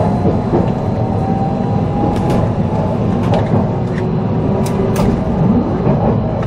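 Inside the cabin of an electric local train accelerating away from a station: a steady rumble of wheels on rail under a faint motor whine that slowly rises in pitch, with a few sharp clicks.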